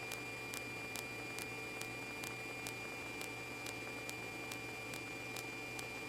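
Steady electrical hum and hiss with a fixed high tone and faint regular ticks, a little over two a second: the background noise of a recording, heard between radio transmissions.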